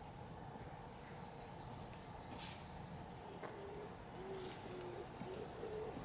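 Morning birdsong: a small bird's rapid high trill for the first couple of seconds, then a dove cooing in a run of low notes from about halfway. A few short hissing sounds come between them.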